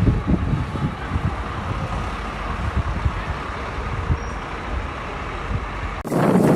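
Storm-force wind buffeting the microphone: a steady low rumble with irregular gusts. About six seconds in it cuts off abruptly and gives way to a different, hissier noise.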